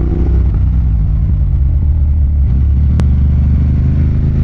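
Ducati Monster 1200's L-twin engine running steadily at low revs under way, with a single sharp click about three seconds in. The revs start to climb right at the end.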